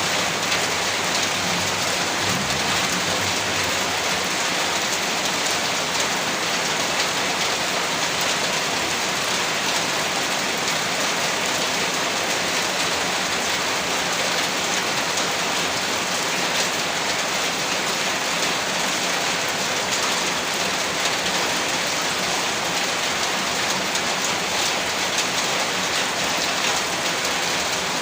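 Heavy rain falling steadily, a dense even hiss with fine scattered drop patter.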